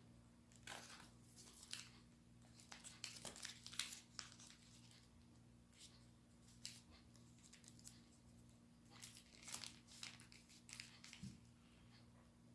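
Origami paper being folded and creased by hand: soft crinkling rustles in two bursts a few seconds apart, over a faint steady low hum.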